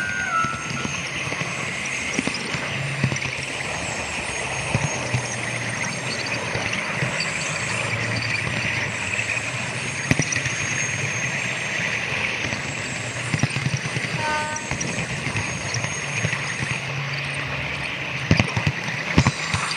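Model railway train running steadily on the track, with a low motor hum and frequent small clicks from the wheels over rail joints, and a burst of clicks near the end.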